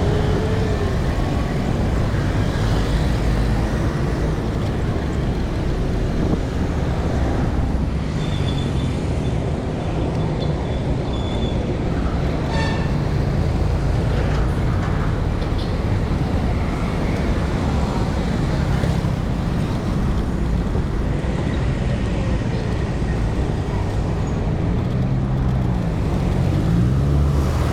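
Steady road traffic noise: motor vehicle engines running and passing close by, with one engine's pitch rising and falling near the end.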